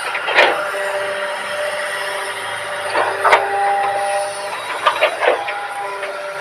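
Hydraulic excavator working, its engine and hydraulics running steadily with a few steady whining tones, broken by several sharp metallic knocks: one early, two a little past halfway and a quick cluster of three near the end.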